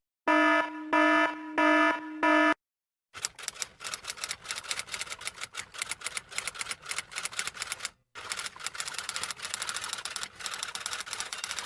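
Four short buzzer beeps, evenly spaced, followed after a brief pause by a long run of rapid typing clicks that stops for a moment and starts again.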